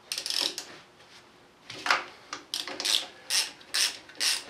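A brief scrape of metal on metal, then a hand ratchet wrench worked in short even strokes, about two and a half a second, with the pawl clicking on each backswing.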